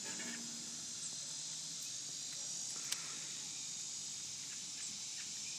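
Steady high-pitched buzzing of insects outdoors, with one sharp click about three seconds in.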